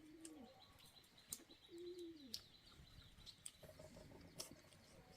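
Faint dove cooing: two soft coos, each a short rising-and-falling note, about two seconds apart. Scattered light clicks and faint high chirps run under them.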